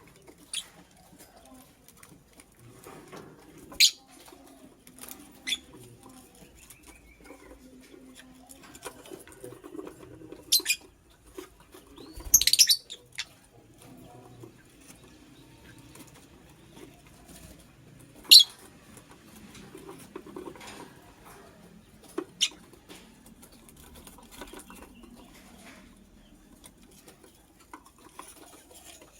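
Pet lovebird moving about its cage with soft scratching and rustling, giving sharp, very short chirps every few seconds, the loudest near the middle.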